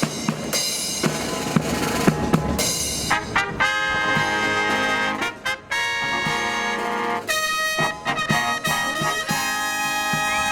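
Brass band with drums playing a fanfare: a run of drum strokes, then long held brass chords.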